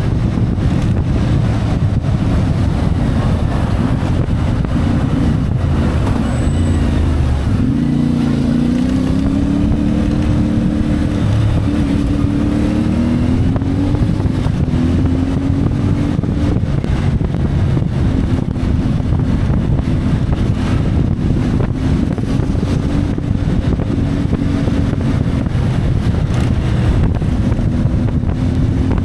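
CF Moto 450MT parallel-twin motorcycle engine running under way, with wind rushing over the microphone. About six seconds in the engine note drops, then climbs through several rising steps as the bike accelerates, before settling to a steady cruise.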